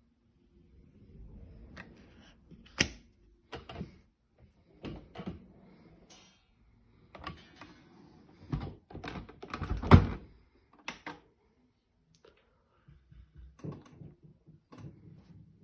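Crockery and dishwasher racks clattering in irregular clinks and knocks, with a louder knock about ten seconds in.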